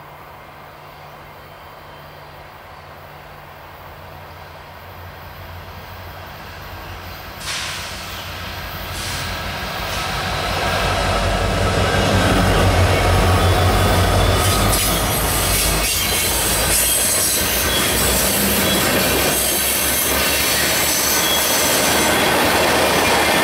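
Union Pacific diesel freight locomotives approaching and passing close, their engine rumble growing louder, with a sudden burst of noise about seven seconds in. The cars that follow roll by with a steady rumble and high wheel squealing on the curved track.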